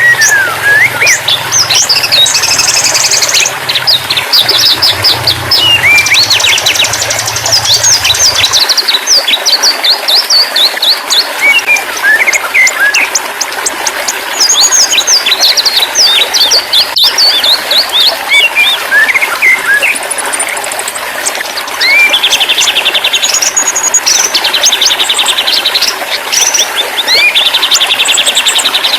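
Songbirds chirping and trilling densely: quick high notes, rapid trills and short whistled glides from several birds overlapping. A low hum underneath stops about a third of the way in.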